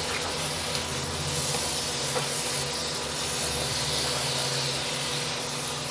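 Soya chunks frying in masala in a non-stick pan, sizzling with a steady hiss as a spatula stirs them.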